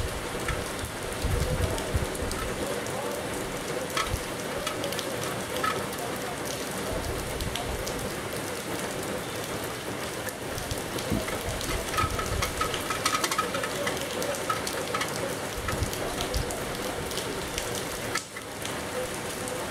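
Steady rain falling on trees and foliage: a continuous hiss with scattered drops and occasional low rumbles.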